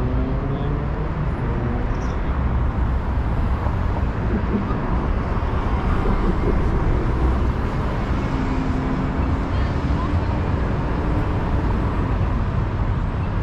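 City street ambience: a steady wash of traffic with a low rumble from passing vehicles, and faint voices of passers-by.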